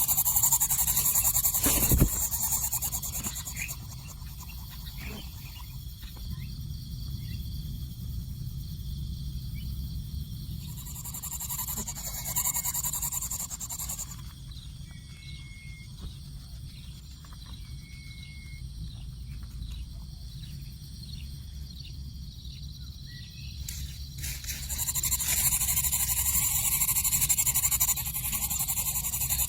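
Outdoor background of high hiss and low rumble, with a sharp knock about two seconds in and a few short, faint high bird chirps in the middle.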